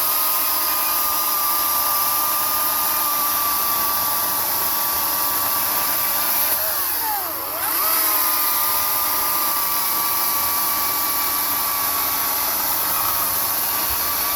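Greenworks 18-inch 80-volt electric chainsaw running at full speed with a steady high whine; about seven seconds in the pitch drops sharply and then climbs back up.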